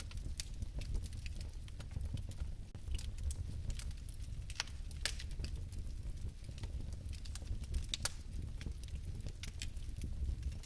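Fire burning with a steady low rumble and irregular crackles and pops, a few sharper ones near the middle.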